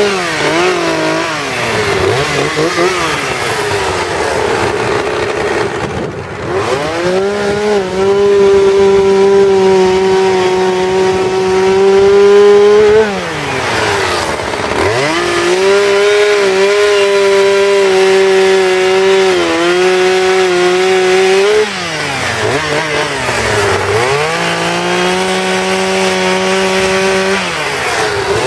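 Two-stroke chainsaw carving wood. It is throttled up and held at high revs for several seconds at a time, three times, and drops back toward idle in between.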